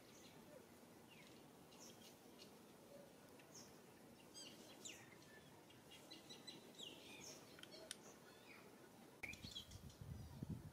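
Faint chirps of small birds: short, high notes, many sweeping downward, scattered throughout. A low rumble comes in about nine seconds in.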